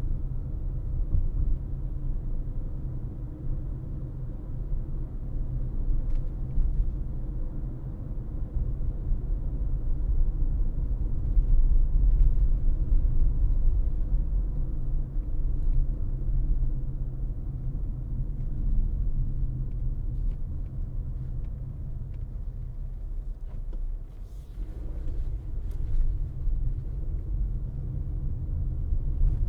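Car driving, with a steady low rumble of road and engine noise; a brief swishing noise about three-quarters of the way through.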